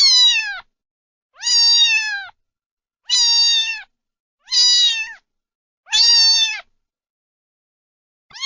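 Domestic cat meowing over and over, one meow about every second and a half, each a high call that falls in pitch at its end.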